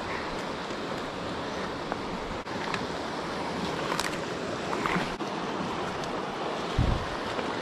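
Steady rush of a mountain creek's flowing water, with a few faint clicks and a short low thump near the end.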